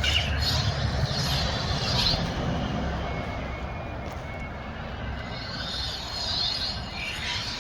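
Lightsaber sound font from a replica saber: a steady low electric hum with whooshing swing sounds that swell and fade several times as the blade is moved.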